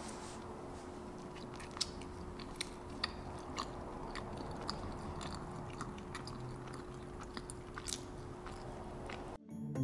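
A person eating: quiet chewing and biting with small irregular mouth clicks over a faint steady hum. Background music cuts in suddenly near the end.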